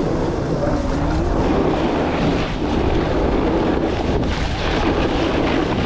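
Heavy wind buffeting the microphone of a camera carried at speed down a black diamond ski run, a steady rushing rumble.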